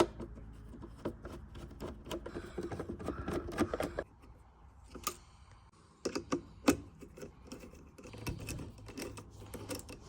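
Irregular light clicks and taps of small objects being handled, with a few sharper clicks about a third of the way in and again past the middle.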